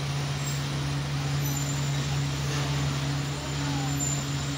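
A passenger train's steady low engine hum, even in pitch and level, as it arrives at a station.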